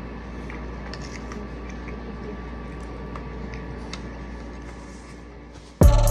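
Faint eating sounds, small clicks of cutlery and chewing, over a steady low room hum. Near the end, loud music with a heavy drum hit cuts in.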